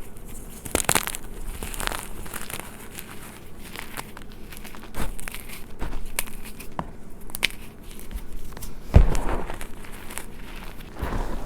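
Gym chalk being crushed, a dense run of irregular crunching and crackling, with a louder crunch about nine seconds in.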